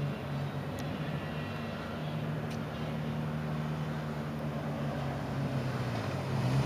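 Motorcycle engine running steadily while riding, its note holding even, over a haze of wind and road noise.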